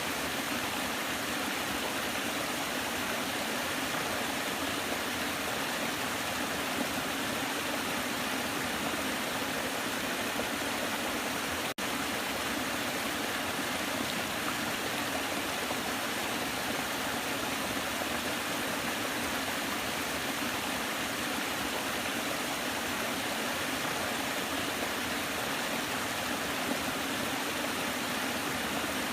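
Waterfall: a steady, even rush of falling water with little deep rumble. About twelve seconds in there is a momentary dropout.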